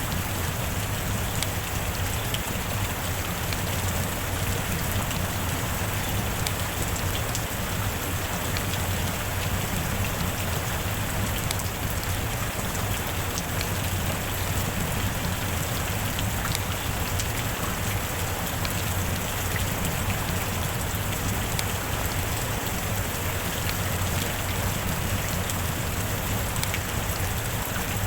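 Steady heavy rain, an even hiss with scattered sharp hits of single drops.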